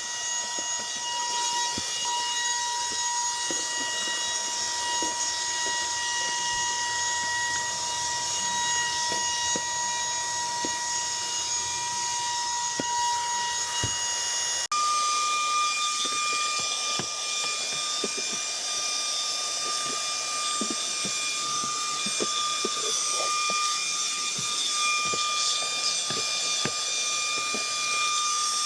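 Cordless handheld car vacuum running: a steady high-pitched motor whine over rushing air, with small ticks and knocks from the nozzle working around the seat rails. The whine steps up in pitch about halfway through.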